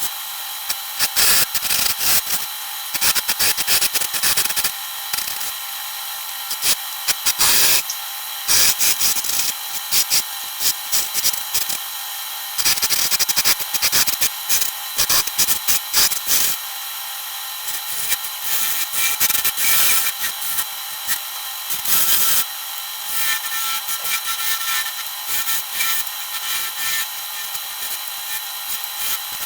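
Wood lathe running while a turning chisel cuts the spinning wood. Irregular bursts of scraping sound over a faint steady motor whine.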